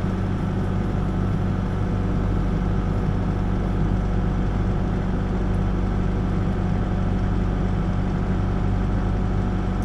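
Backhoe's diesel engine running at a steady speed, an even low drone with no change in pitch, heard from the operator's seat.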